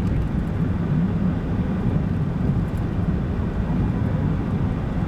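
Steady low rumble of a car driving along a road, engine and tyre noise heard from inside the car.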